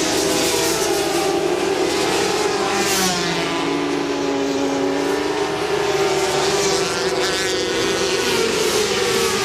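Several 400 cc supersport racing motorcycles running at full race speed. Their overlapping engine notes rise and fall as the bikes pass by and change gear.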